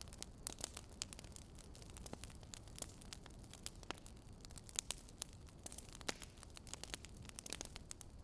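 Fire crackling: irregular small pops and snaps over a faint steady hiss, with a couple of louder pops a little before the five-second mark.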